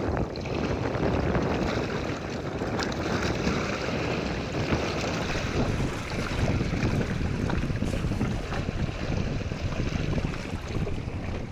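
Steady wind buffeting the microphone over open sea, with waves washing underneath.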